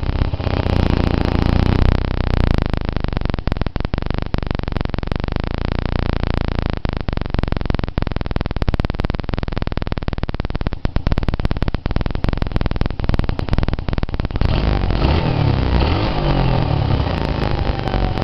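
I-Moto Dragon 125cc motorcycle engine running cold shortly after a cold start, held at raised revs. About fourteen seconds in, the revs fall back toward idle.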